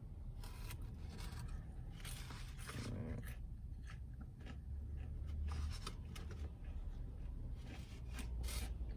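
Close-up chewing of a bite of fried chicken tender, with scattered small crunches and mouth clicks over a low steady hum.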